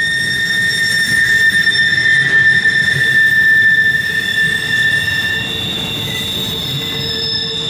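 Wheel flanges of a long CSX intermodal train's empty cars squealing on a curve as the cars roll past, several steady high-pitched squeals over the rumble of wheels on rail. The strongest squeal fades out about two-thirds of the way through, and a lower squeal comes in near the end.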